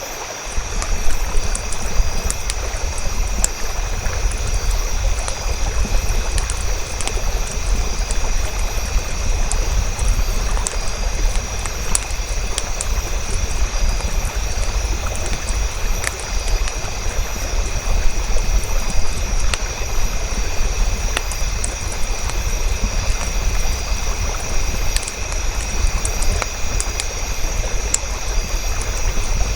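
Campfire burning: a steady low rumble and hiss of the flames with frequent short sharp crackles and pops.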